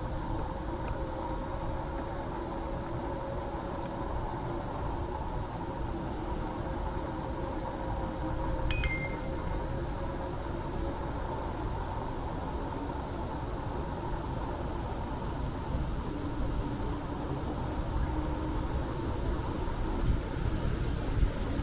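Urban road traffic: motor vehicle engines running steadily with a low rumble and a faint engine hum, and a single brief click about nine seconds in.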